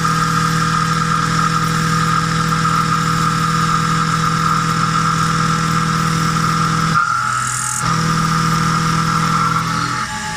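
Milling machine running steadily, a constant hum with a high whine over it. The hum breaks off for under a second about seven seconds in, with a brief high hiss, then carries on.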